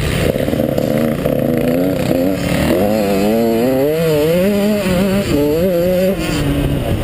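KTM 150 XC two-stroke dirt bike engine running hard under the rider, its pitch rising and falling quickly as the throttle is worked and gears change, with a rough rumble underneath.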